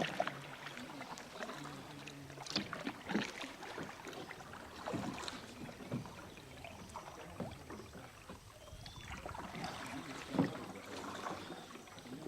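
Kayak paddles dipping and splashing in calm water, irregular strokes a second or two apart.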